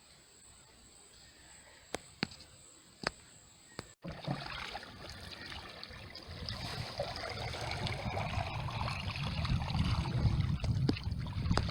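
A faint steady high insect whine with a few sharp clicks, then, after an abrupt break, water sloshing and trickling over a low rumble that grows steadily louder.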